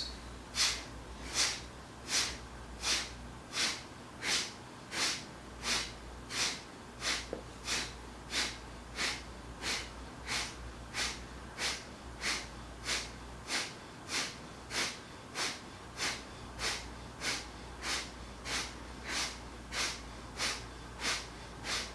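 Kapalabhati breathing: short, forceful exhalations pushed out through the nose by pumping the belly, in a steady rhythm of about one and a half a second, each followed by a quiet passive inhale.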